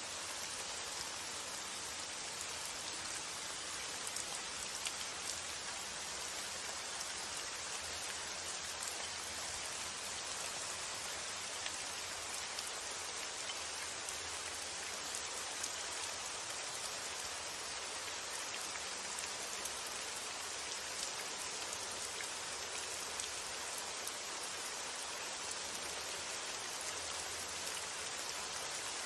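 Steady rainfall, an even hiss with many small drops ticking on surfaces and no change in intensity.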